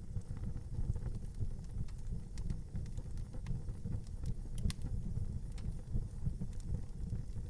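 Wood fire burning in an outdoor fireplace: a steady low rumble of flames with scattered crackles and pops, a few sharper pops about four and a half seconds in.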